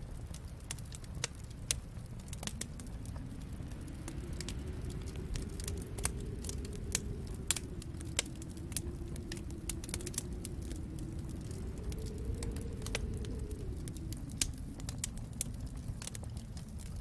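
Wood fire crackling, with irregular sharp pops and snaps over a low rumble that swells and fades about midway.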